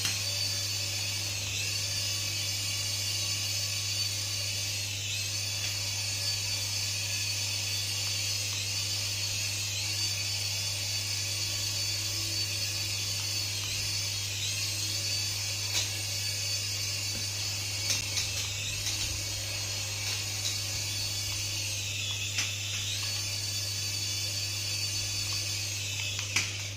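High-pitched whine of a toy's small electric motor, running steadily with brief dips in pitch every few seconds, and a few small clicks.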